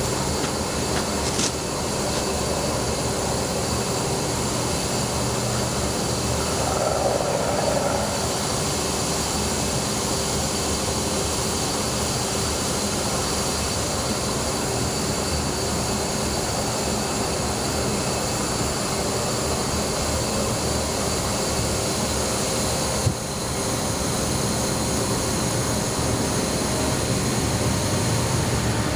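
Mixed freight train rolling past with a steady rumble, with a sharp click about a second and a half in and another near the end.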